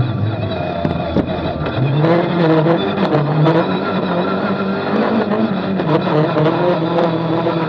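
Renault Clio Maxi rally car's 2.0-litre four-cylinder engine heard from inside the cabin, pulling hard under acceleration with its pitch rising in steps as the speed climbs. A few short knocks come through among the engine sound.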